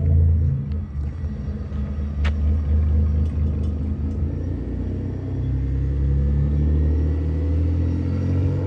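V6-swapped Mitsubishi Lancer Evolution X running with its new exhaust: a steady low rumble that swells slightly partway through.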